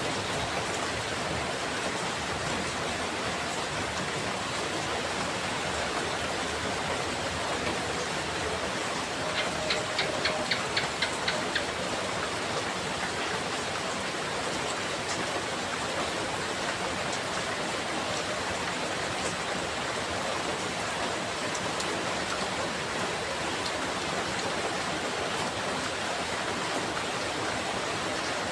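Steady heavy rain, an even hiss. About nine seconds in comes a quick run of about eight sharp ticks, four a second, lasting about two seconds.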